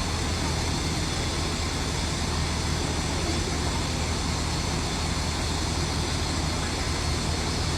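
Diesel engine of heavy construction machinery running steadily with a low, even drone.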